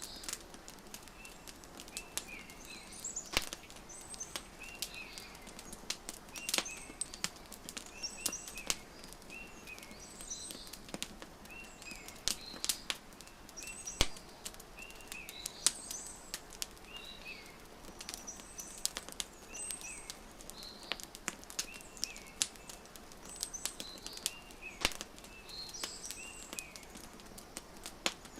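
Wood fire crackling with frequent sharp pops, over small birds chirping short repeated calls about every second or two.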